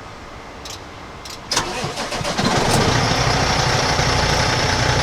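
A truck engine being started: two short clicks, then about a second and a half in it cranks and fires, catching within a second and settling into a steady idle.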